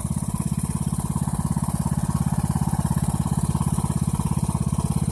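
Poulan Pro PP175G42 riding lawn tractor engine running steadily with an even, rapid pulsing beat.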